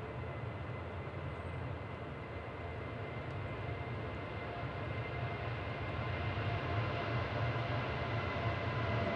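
Jet airliner's turbofan engines, a steady rumble with a thin whine on top, slowly growing louder as the aircraft approaches.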